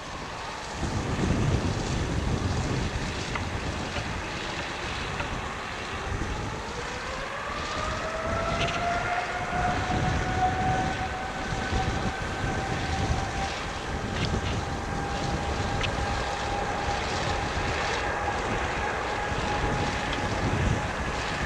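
Boeing 787-10 jet engines spooling up for takeoff: a low rumble with wind buffeting the microphone, and a whine that rises about seven seconds in, then holds steady at high thrust.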